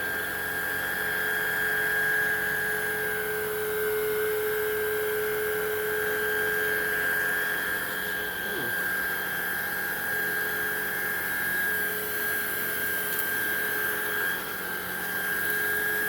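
Hoover React cordless upright vacuum running over carpet: the motor gives a steady high whine over a rushing airflow.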